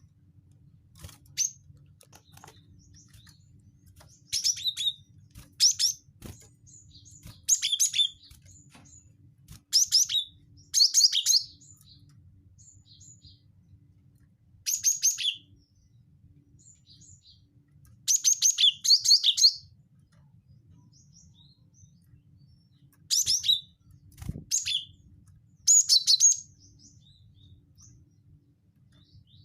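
Cinereous tit (gelatik batu) calling in short bursts of rapid high chirps, about eleven bursts with pauses of one to four seconds between them, over a faint low hum.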